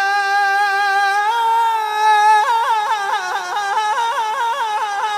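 A solo singing voice holding a long note on 'Ali', then breaking into a fast warbling ornament of several quick turns a second about halfway through, in the melismatic style of Iraqi devotional singing.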